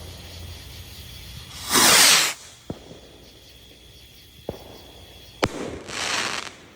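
Mega Willow 2-inch firework rockets going off. A loud rushing whoosh comes about two seconds in, then a few sharp cracks, and a second rushing burst near the end.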